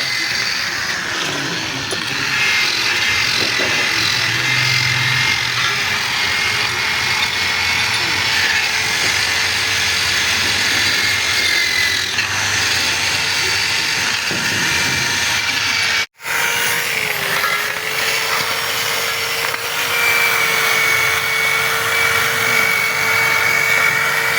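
Handheld power tool running continuously against a metal engine block, a steady whine over scraping noise. It cuts out for an instant about two-thirds of the way in, then carries on.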